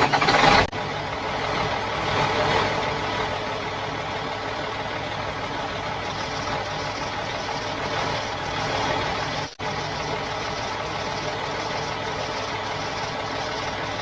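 Truck engine sound effect running steadily at a low idle, with a louder burst right at the start and a brief cut-out about nine and a half seconds in.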